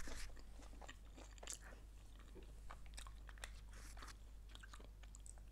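A person chewing food close to the microphone: faint, irregular mouth clicks and crunches.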